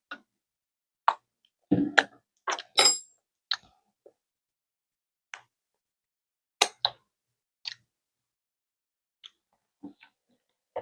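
Scattered short clicks and knocks of a spoon being handled while tasting homemade salad dressing, with one brief clink that rings about three seconds in.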